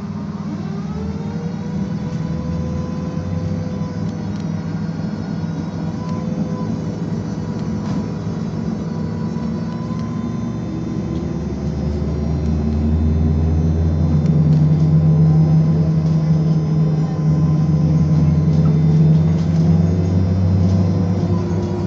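BKM-221 trolleybus under way, heard from inside: the electric drive's whine rises in pitch over the first few seconds, then holds steady over a low running rumble. The rumble grows louder about halfway through.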